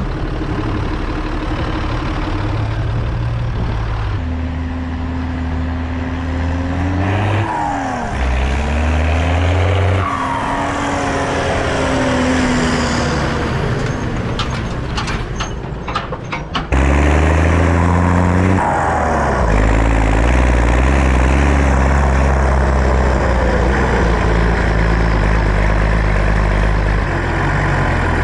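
Straight-piped Zetor 16145 tractor's six-cylinder turbo diesel running under load. The engine speed rises and falls several times, with the turbo whistle sweeping along with it. A quick run of clicks comes about 15 seconds in, and the engine gets louder again shortly after.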